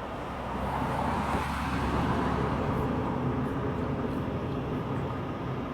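A motor vehicle's engine running close by, a steady low rumble that swells over the first couple of seconds and then holds.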